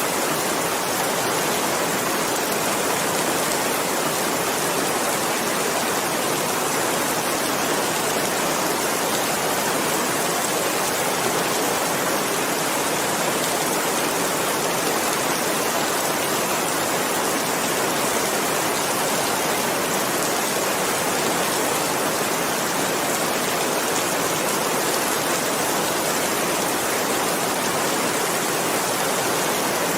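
Steady, even rainfall: a dense hiss of drops without breaks or distinct events.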